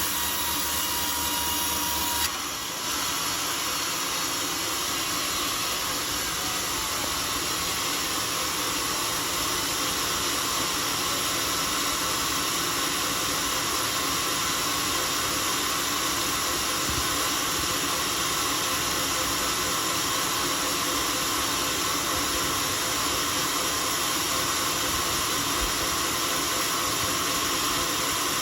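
A sawmill saw cutting through a teak log, giving a steady hissing noise that changes character once about two seconds in.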